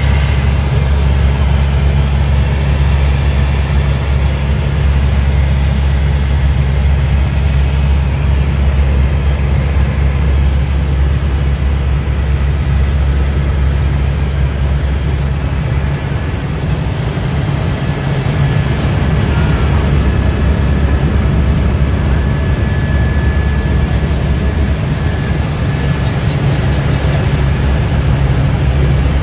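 Helicopter in flight: a loud, steady low drone of rotor and engine, with a faint thin whine joining in about halfway through.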